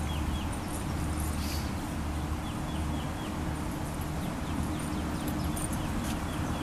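Steady low outdoor rumble with a bird chirping in short falling notes, a few quick chirps at a time, a couple of times over the stretch.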